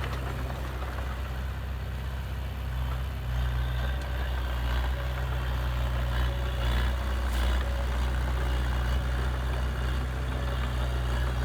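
Heavy diesel engine of earthmoving machinery running steadily with a low drone, growing louder about three seconds in as it comes under more load.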